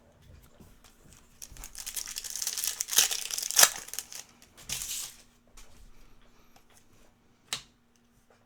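Foil trading-card pack wrapper being torn open and crinkled, with two sharp rips about three seconds in, then softer rustling as the cards are handled.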